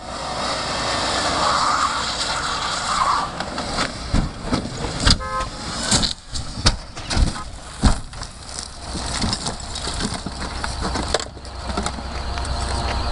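A stunt car driving, then a series of heavy knocks and crunches between about four and eight seconds in as it crashes and rolls down a hillside, with a brief pitched squeal among the impacts.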